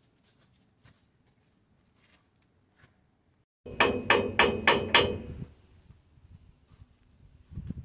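Hammer blows on the steel hitch and truck frame: a quick run of five sharp, ringing metal strikes about halfway through, tapping the hitch into position, with a few duller knocks near the end.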